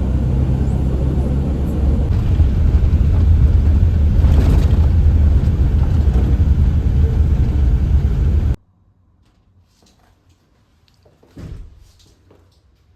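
Steady low rumble of a moving vehicle, which cuts off abruptly about eight and a half seconds in; after that, only a few faint knocks.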